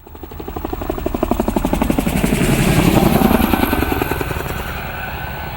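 Helicopter rotor chopping in rapid, even beats as the helicopter passes, fading in, loudest about three seconds in, then easing off.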